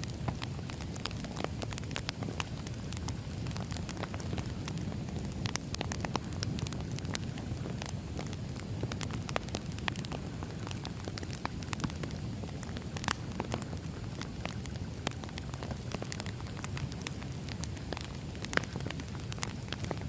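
Wood fire crackling: a steady low rumble of burning logs with frequent sharp, irregular pops and snaps.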